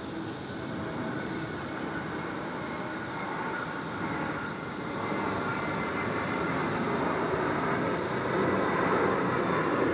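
Steady rumble of a passing vehicle, growing gradually louder.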